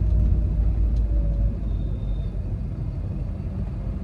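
Volkswagen Vento 1.5 TDI diesel car driving along, a steady low rumble of engine and road noise that eases slightly about halfway through.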